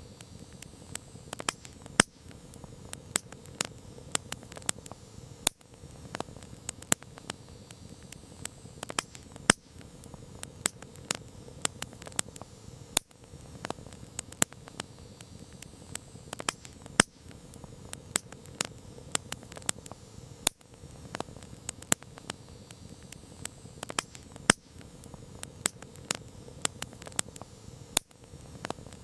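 Campfire crackling: frequent sharp, irregular pops and snaps over a soft, steady hiss of burning wood.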